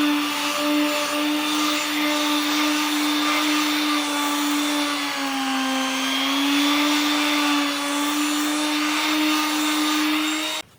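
Electric power tool motor running at a steady high whine, its pitch sagging briefly in the middle as if under load, then cutting off suddenly near the end.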